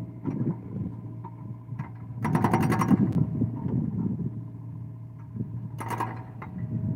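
Excavator engine running steadily, with a loud burst of rapid metallic rattling about two seconds in lasting about a second, and a shorter rattle near the end.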